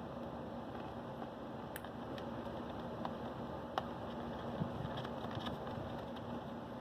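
Steady low background hum with scattered light clicks and taps, a few of them close together a little past the middle.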